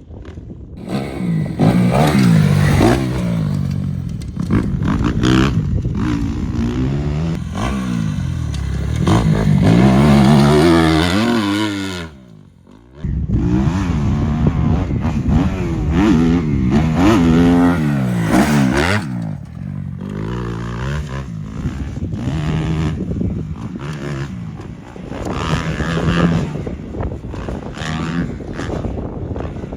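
Dirt bike engine revving hard and shifting through the gears, its pitch rising and falling again and again, with a brief drop in sound about twelve seconds in.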